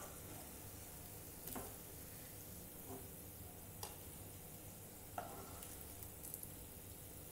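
Bread pizza pockets sizzling faintly in hot oil in a frying pan. A few light clicks of a metal spatula against the pan come as the browned pieces are lifted out.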